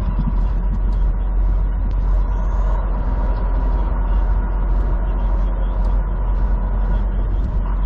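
Semi truck's diesel engine running steadily, heard from inside the cab as a deep, even rumble. A faint regular ticking sits over it, a little under twice a second.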